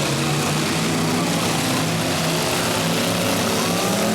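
Several demolition derby cars' engines running and revving together, a steady mass of engine noise with pitches that shift up and down.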